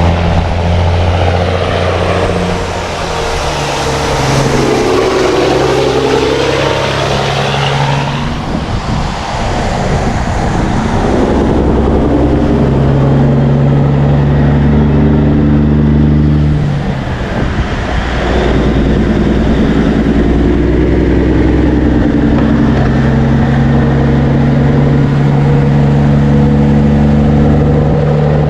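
Road traffic: a steady engine hum, with vehicles driving past about four to eight seconds in and again about eighteen seconds in.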